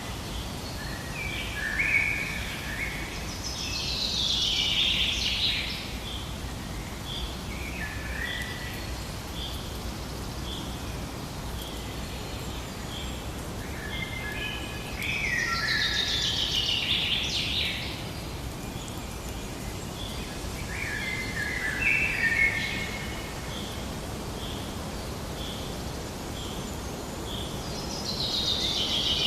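Songbirds singing outdoors: a phrase of song every few seconds, with a steady series of short, evenly spaced high notes repeating between the phrases over a low, even background hiss.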